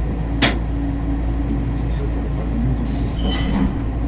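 Skyrail suspended people-mover car running on its track: a steady rumble, a sharp clack about half a second in, and a brief high squeal about three seconds in.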